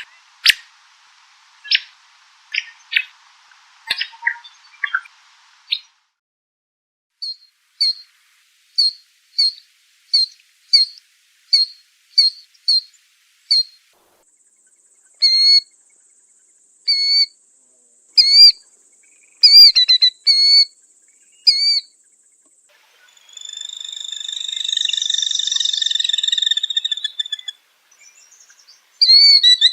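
Small songbirds chirping and singing. A run of short, evenly spaced high chirps comes at about two a second, then louder whistled notes follow, and a longer buzzy trill starts near the end.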